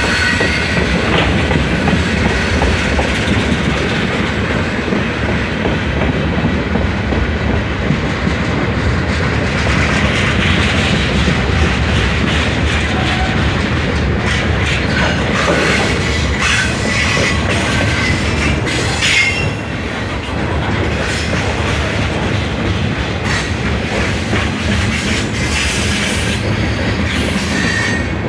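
Freight train cars rolling past: a steady, loud rumble of steel wheels on rail with rhythmic clacking over the rail joints.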